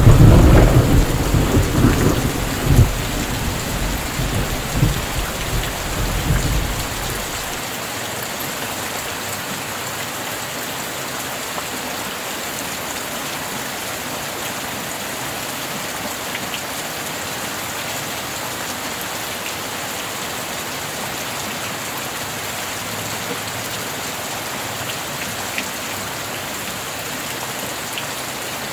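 A thunderclap at the start, rumbling with a few sharper cracks for about seven seconds before dying away, over steady rain. The rain then continues alone, even and unbroken.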